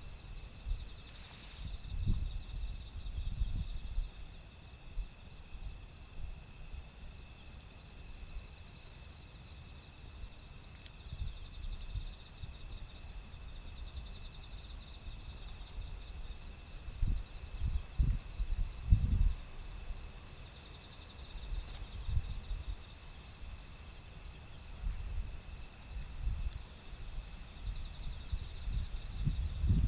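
Gusty wind buffeting the microphone in irregular low rumbles, with insects chirping in a steady pulsing pattern behind it.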